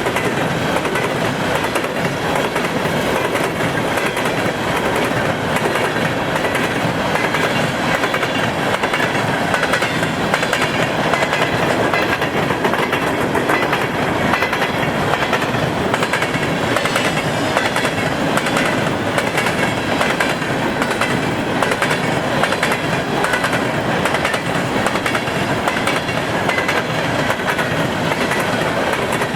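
Empty coal train of steel gondolas rolling past steadily, its wheels clicking over the rail joints with a continuous rumble and rattle.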